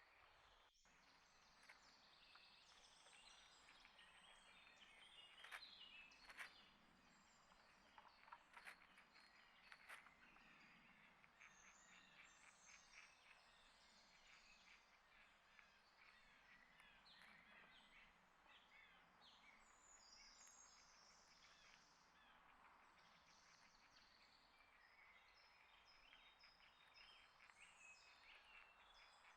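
Faint outdoor ambience with small birds chirping and calling throughout, and a few sharp ticks about five to ten seconds in.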